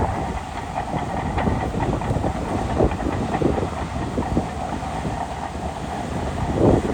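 Shantui DH17C2 Pro crawler bulldozer running, with dense, irregular clanking and rattling over a steady low engine sound.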